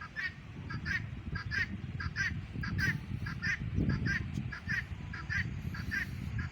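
Birds calling over and over in short, harsh honking notes, about three a second in uneven runs, over a low steady rumble.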